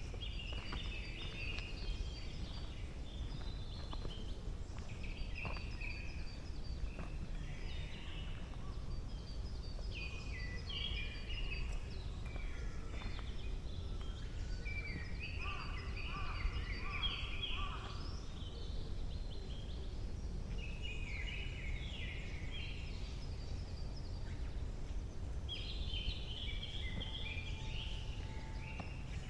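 Wild birds singing: a short, quick song phrase repeats every few seconds, with a thin series of high notes from another bird at times. Under them runs a steady low rumble.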